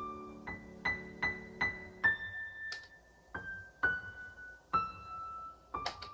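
Background piano music: a slow melody of single notes, each struck and left to ring. A few short sharp clicks sound over it, one about midway and a couple near the end.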